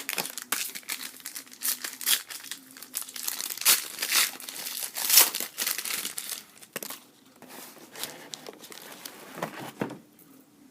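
Foil wrapper of a hockey card pack crinkling and tearing as it is handled and opened. There is a dense run of sharp crackles for the first six seconds or so, thinning out towards the end.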